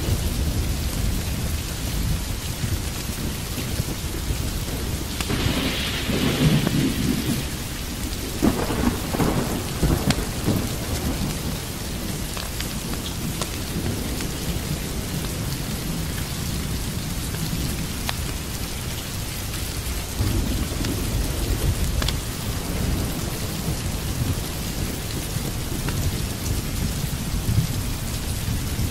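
Steady heavy rain with rolling thunder; the thunder swells loudest about five to ten seconds in.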